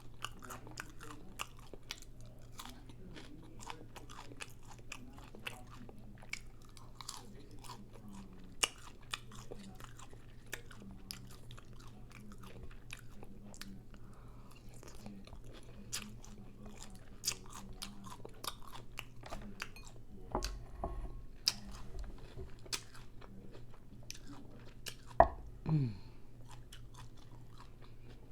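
Close-up chewing and crunching of a crunchy taco shell filled with chorizo, with many small crisp crunches and mouth clicks. Near the end comes one louder, brief sound that falls in pitch.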